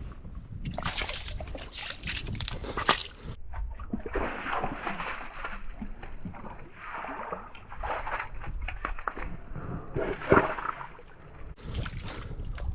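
Sea water sloshing and splashing about the rocks, in uneven surges, with wind rumbling on the microphone underneath.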